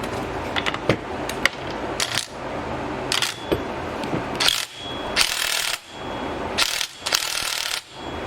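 Hand ratchet wrench clicking in a series of short strokes as it works the top nut on a front strut's shaft.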